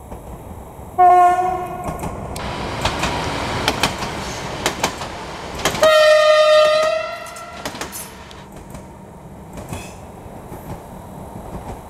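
Electric multiple unit passing at speed, sounding its horn twice: a lower note about a second in and a higher note around six seconds in, each lasting about a second, with wheels clicking over rail joints between them. The blasts are warnings as the train nears a level crossing. The running noise then fades as it moves away.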